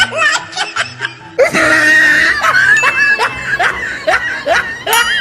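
Repeated bursts of laughter over background music.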